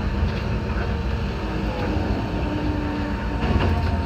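Enoshima Electric Railway train running, heard inside the car: a steady low rumble with a faint steady high tone.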